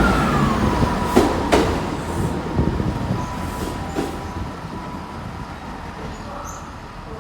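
Train running past and moving away, its sound fading steadily; the wheels give two sharp clicks about a second and a half in.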